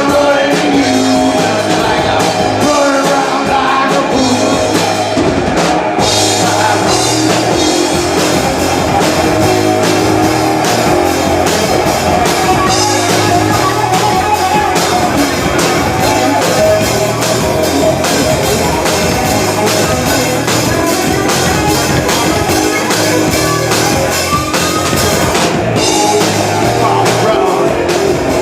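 Live rock band playing a song with singing, electric guitar and drum kit, recorded from the audience at high volume.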